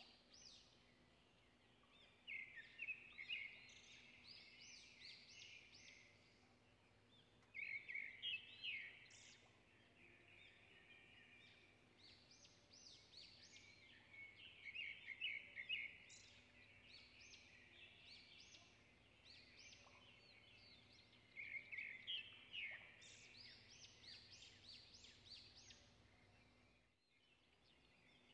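Faint birdsong: bursts of quick, rising chirps that come every few seconds, over a faint steady low hum.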